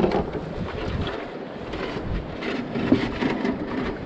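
Wind rumbling on the microphone over the water sounds of a paddled river boat, with a few short knocks.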